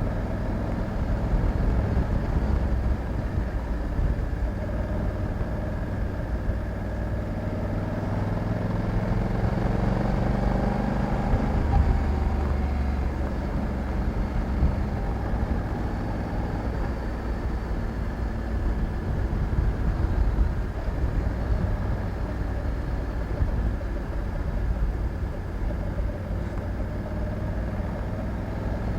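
Honda Africa Twin 1100's 270° parallel-twin engine running on the move. Its note rises around a third of the way through as it accelerates, then settles back to a steady cruise.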